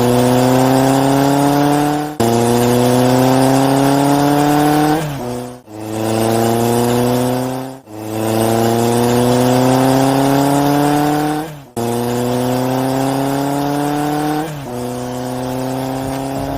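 Race car engine sound effect accelerating through the gears: the engine note climbs steadily, drops back sharply as if on an upshift and climbs again, about six times, over a steady low hum.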